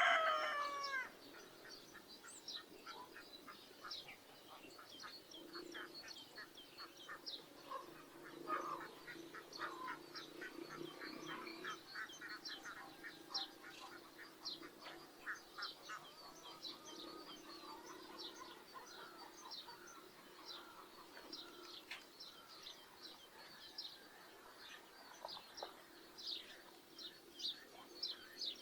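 Farmyard poultry: a rooster's crow trails off about a second in, then ducks quack on and off. Small birds chirp busily throughout.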